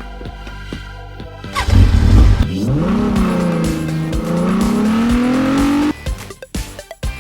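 A car engine revving, a loud burst and then a climbing pitch for about three seconds, cutting off suddenly, over background music.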